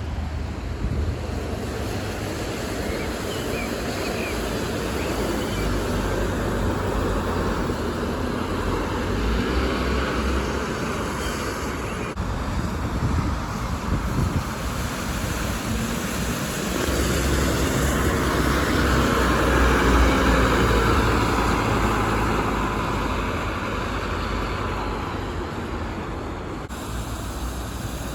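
City bus engines and road traffic, a steady rumble that swells as a vehicle draws close about two-thirds of the way through, then eases off.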